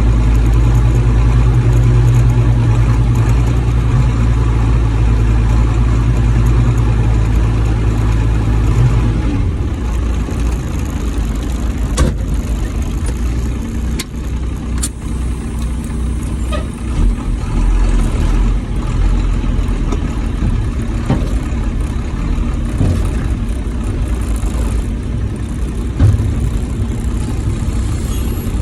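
Old Ford dump truck's engine running while driving, a steady low drone that drops and changes about nine seconds in, with a few sharp knocks from the truck.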